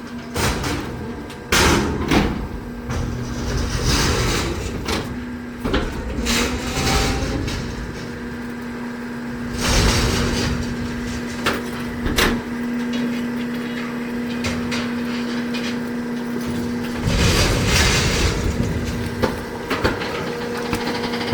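Garbage truck at work: a steady hydraulic hum runs under repeated loud metal bangs and clanks as the truck collects and packs.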